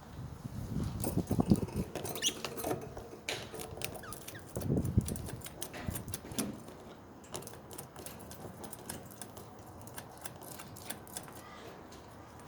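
Pet budgerigars in their cage: many quick, irregular clicks and taps, with dull thumps near the start and again about five seconds in, and a few short squeaks.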